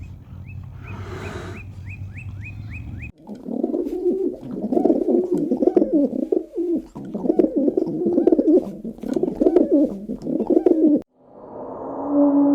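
Animal calls spliced together: about three seconds of quick, repeated high chirps over a low hum, then about eight seconds of loud, repeated low cooing calls, then a steady low tone near the end.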